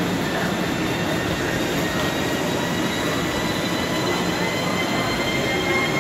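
ICE 4 high-speed electric train pulling along a station platform, its wheels and running gear rumbling steadily. Over the rumble, a whine of several high tones rises slowly in pitch as the train gathers speed.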